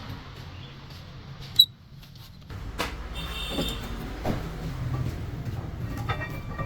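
Metal clinks and knocks of workshop work on truck wheel parts: a sharp ringing metallic ping about one and a half seconds in, then a low steady rumble with several knocks and a brief metallic ring.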